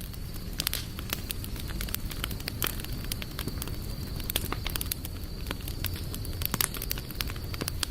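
Campfire burning, with frequent irregular sharp crackles and snaps over a steady low rumble. A faint steady high-pitched tone runs underneath.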